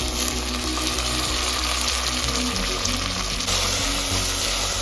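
Food sizzling in hot oil in a cooking pot, a dense steady hiss that grows louder about three and a half seconds in. Background music plays underneath.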